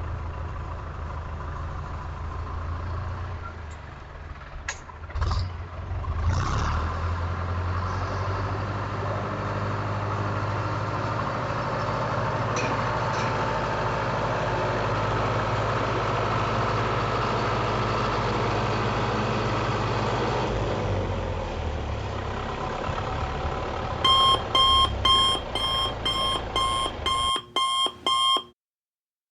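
A motor running steadily with a low hum, with a few light clicks early on. Near the end comes a quick run of loud, high electronic beeps, about two a second, which cut off suddenly.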